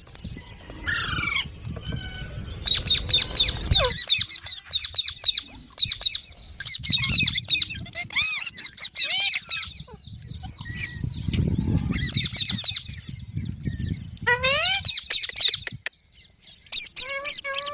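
Green parrot calling in repeated bursts of short, sharp, high-pitched calls, several a second, with pauses between the bursts. A low rustling rumble runs under parts of it.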